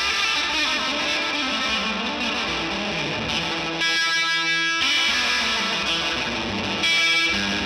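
Electric guitar, a Gretsch White Falcon, played through a Benson delay pedal into a slightly overdriven amp: a lick of picked notes and held chords, each trailed by a delay echo.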